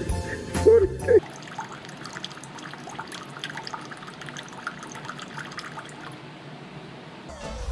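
Water trickling steadily, with many small drips and splashes, after a short burst of music and a brief rising-and-falling call in the first second.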